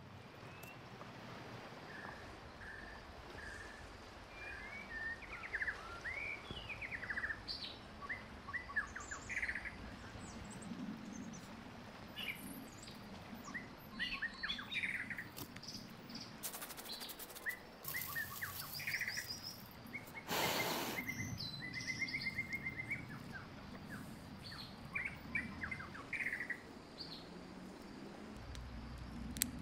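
Several birds chirping and singing, short calls and trills one after another. A run of clicks about halfway through and one brief rush of noise a little later stand out above them.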